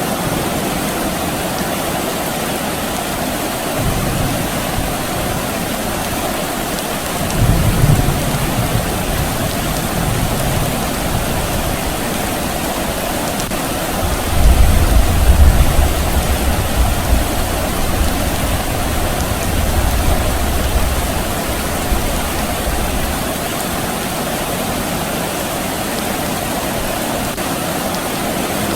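Steady rain with distant thunder rumbling low several times; the loudest rumble comes about halfway through.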